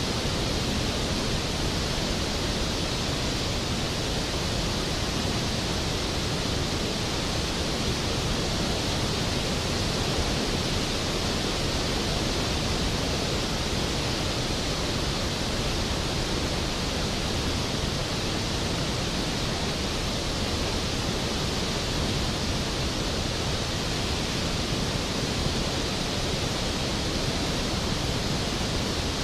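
Skógafoss waterfall's heavy cascade, a steady full roar of falling water with no breaks or changes.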